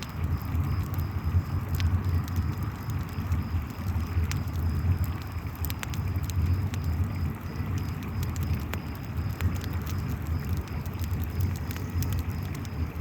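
Layered night ambience: a river's steady low rush of water, a campfire crackling with scattered sharp pops, and crickets chirping in a faint, regular high pulse.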